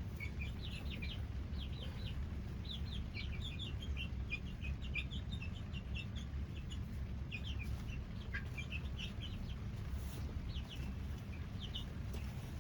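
Young chicks peeping, a steady scatter of short, high, falling cheeps from several birds at once while they forage in grass. A steady low rumble runs underneath.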